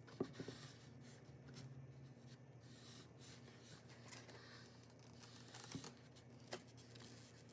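Near silence with faint scraping and a few light taps: a skewer working along the edges of a wet acrylic-poured canvas to clear the drips.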